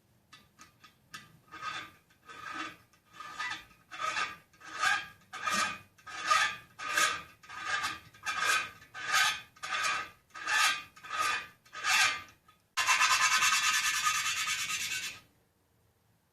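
Hand-worked rubbing or filing strokes on Kohler Magnum 16 engine parts: about fifteen strokes in a steady rhythm, each swelling and fading. They are followed by a steady hiss of about two and a half seconds that cuts off suddenly.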